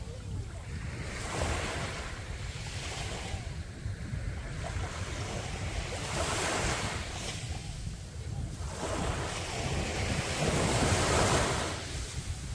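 Sea waves breaking and washing up the beach, swelling in surges every few seconds, with wind buffeting the microphone in a steady low rumble.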